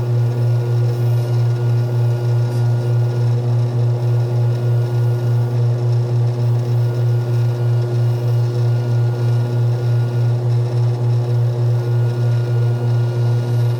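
Low, steady machine hum with an even pulse a few times a second.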